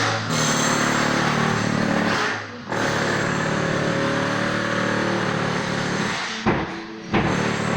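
An engine running with its pitch shifting up and down, briefly dropping off twice, with a sharp knock about six and a half seconds in.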